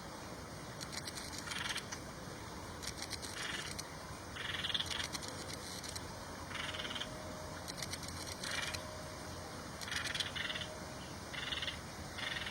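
Short animal calls repeated about eight times at irregular intervals of one to two seconds, over a steady background hiss.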